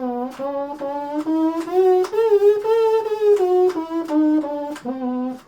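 3D-printed pocket trumpet with rectangular valves playing a run of separate tongued notes that step up about an octave and back down, like a scale. Its tone is still not great.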